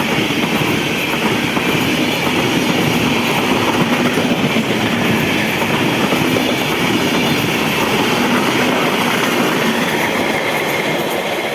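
The 12302 Rajdhani Express train passing close by at speed: a loud, steady rush of wheels on rails and passing coaches that starts to die away near the end.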